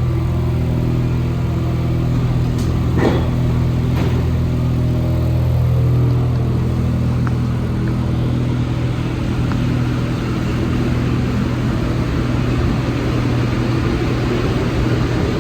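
Interior of an Alstom NS-74 metro car: a strong steady low hum with several level tones above it, fading somewhat in the second half, and a single short knock about three seconds in.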